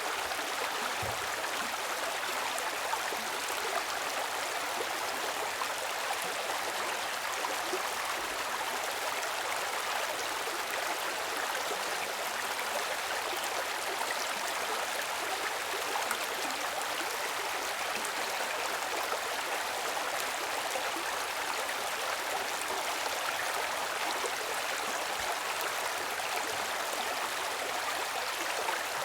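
Flowing water of a stream, an even, steady rushing.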